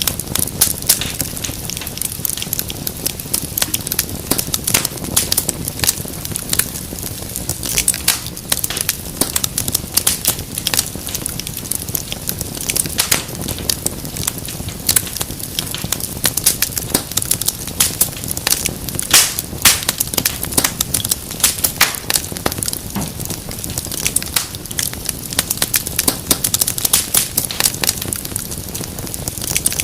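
Wood fire crackling and popping steadily, with many small sharp snaps over a low, even rushing of the flames.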